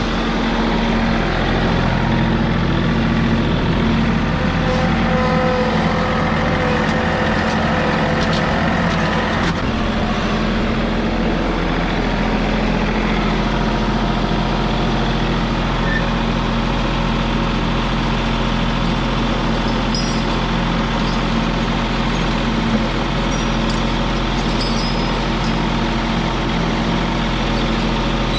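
Tractor engine running steadily, its note shifting about ten seconds in.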